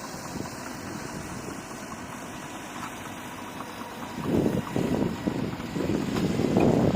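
Diesel engine of a bulldozer running steadily. From about four seconds in, wind buffets the microphone in louder, irregular gusts.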